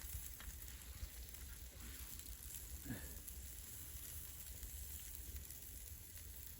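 Faint sizzling and crackling of wild boar kebabs cooking over a campfire.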